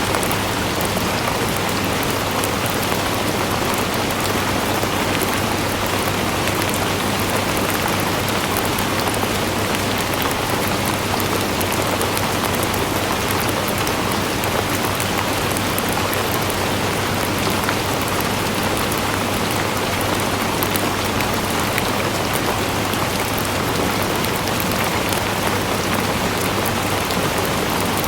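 Steady rain falling and pattering on a surface, with fine scattered drop ticks over an even hiss that does not change.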